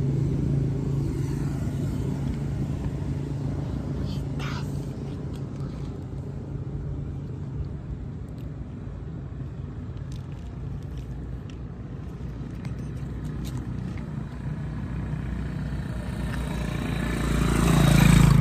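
Motor vehicle engine running with a steady low rumble, fading somewhat through the middle, then growing louder toward the end as if coming closer.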